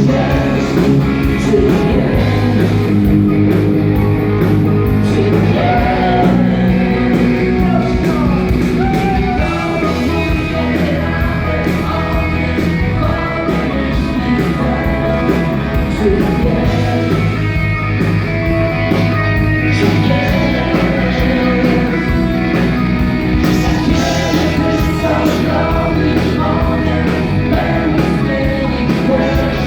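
Live band playing a rock ballad: bass, held chords and a lead line, loud and steady.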